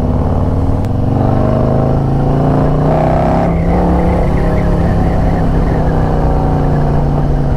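Harley-Davidson motorcycle's V-twin engine under way, rising in pitch for a couple of seconds as it accelerates, then holding a steady cruise.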